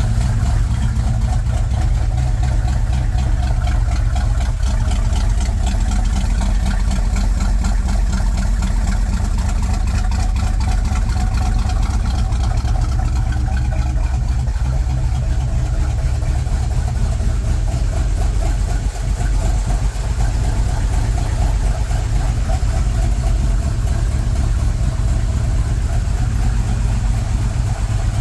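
1973 Dodge Charger engine idling steadily on a warm-up run after months of sitting unused.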